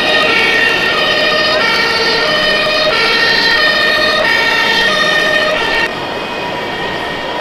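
Fire engine siren sounding, its tones alternating back and forth between two pitches, cutting off about six seconds in.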